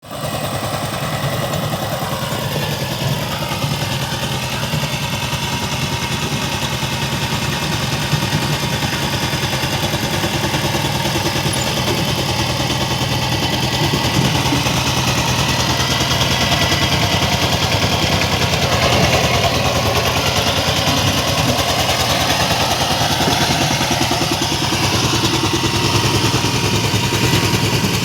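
Power tiller engine running steadily with a fast, even chug.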